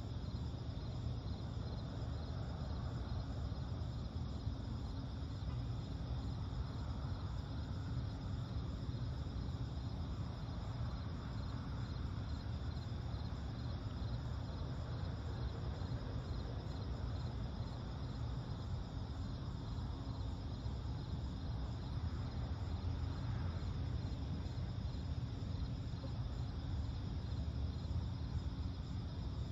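Steady chorus of night insects, chirping in fine, even pulses at a high pitch, over a continuous low rumble.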